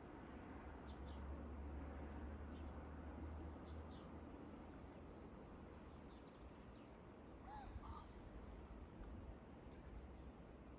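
Crickets trilling steadily at a high pitch, faint, with a few faint bird chirps scattered through and one short bird call about three quarters of the way in. A low rumble sits under the first half.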